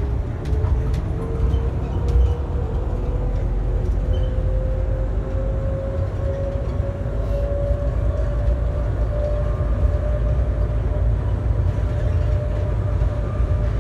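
Airport people-mover tram running on its guideway: a steady low rumble with a motor whine that rises slowly in pitch as the tram gathers speed, then holds steady.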